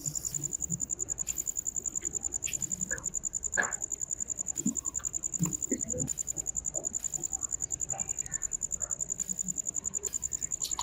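An insect, cricket-like, trilling: a steady high-pitched rapid pulsing, with scattered faint clicks and knocks.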